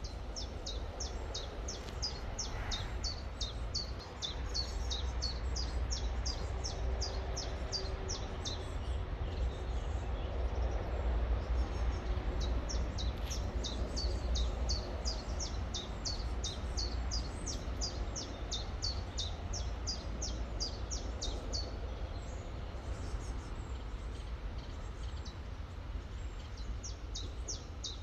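A songbird singing long runs of quick, high, down-slurred notes, about four a second, pausing twice, over the steady rush of a river.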